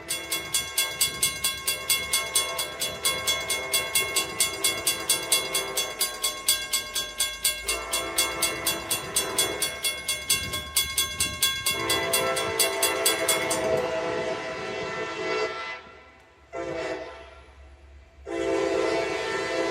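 Diesel locomotive air horn sounding long blasts over the rapid, even ringing of a railroad crossing bell. The bell stops about two-thirds of the way through. The horn then cuts out, gives a short blast, and sounds again near the end.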